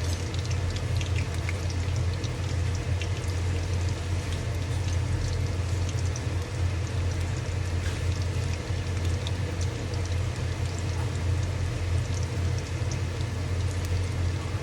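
Battered fish pakoras deep-frying in hot oil, a steady sizzle with many fine crackles, over a steady low hum.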